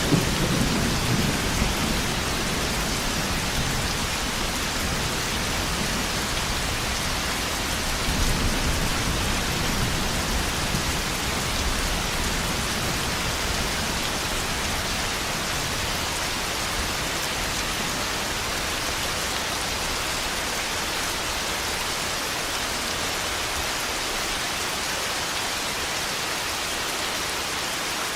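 Thunderstorm: steady heavy rain falling, with rolls of thunder rumbling in the first couple of seconds and again about eight seconds in, fading to rain alone for the second half.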